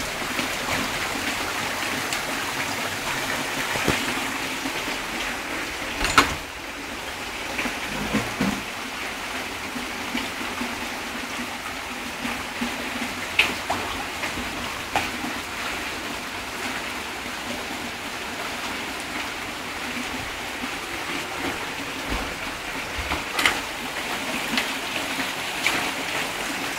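Heavy rain falling steadily, with a few sharp taps now and then, the loudest about six seconds in.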